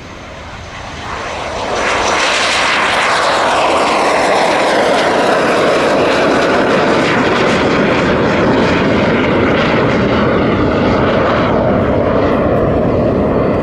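Two-seat MiG-15 jet trainer's turbojet engine taking off, swelling to full loudness about two seconds in and holding there, with tones sliding downward as the aircraft passes.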